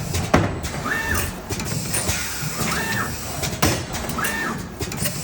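Automatic turntable screen printing machine running in its cycle. About every 1.8 seconds there is a short whine that rises, holds and drops, along with sharp mechanical clacks. At this speed the machine sounds very shaky.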